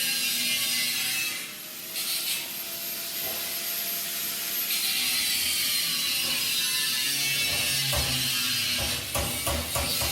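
Metalworking on steel plate during stove fabrication: a steady hiss, then a quick run of sharp clicks near the end.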